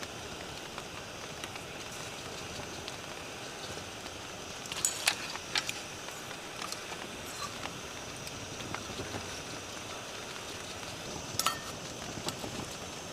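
Steady rain falling, an even hiss, with a few sharp clicks or taps about five seconds in and again near the end.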